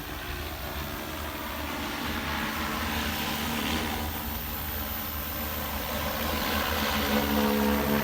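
Agricultural spray drone's rotors humming steadily, growing louder toward the end as the drone comes closer.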